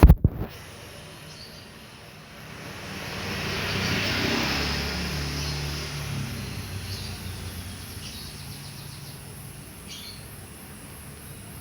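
A couple of sharp thumps at the very start, then a motor vehicle passing by, swelling and fading over a few seconds, with short bird chirps here and there.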